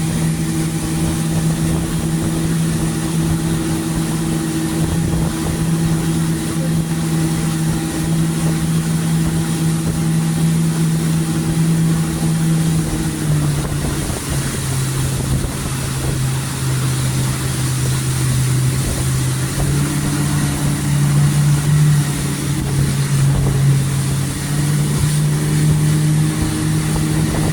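Small boat engine running steadily under way, with a constant rushing hiss of wind and water. The engine's pitch drops about halfway through, then rises again and wavers near the end.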